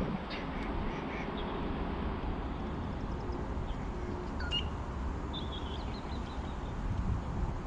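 Steady outdoor background noise with a few short, high bird calls: a brief chirp about halfway through, then a quick run of short notes.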